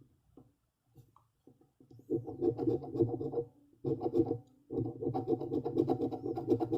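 Scratch-off lottery ticket being scratched off. There are a couple of light clicks, then rapid rough scratching from about two seconds in, in three spells with short pauses between them.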